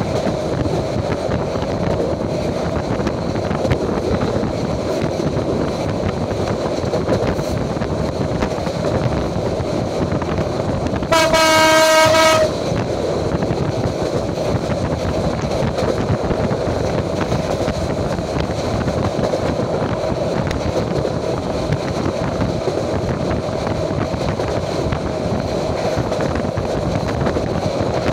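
Passenger train running at speed, heard from inside the carriage: a steady rumble and clatter of wheels on the rails. About eleven seconds in, a train horn blasts once for about a second and a half.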